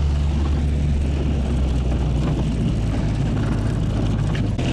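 Propeller airplane engine running with a steady low drone and a rushing noise.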